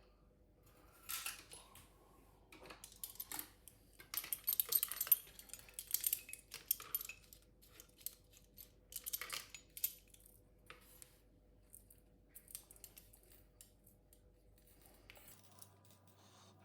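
Small metal parts clinking and rattling in short, irregular bursts as they are handled by hand, busiest a few seconds in and dying away near the end.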